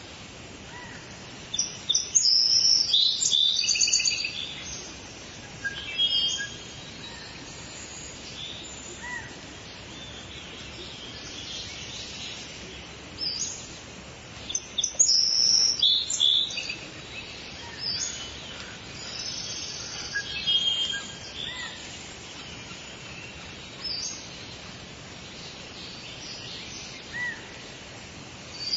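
Songbirds singing and calling in short high chirps and trills over a steady background hiss of outdoor ambience, with the loudest bursts of song about two seconds in and again around fifteen seconds in.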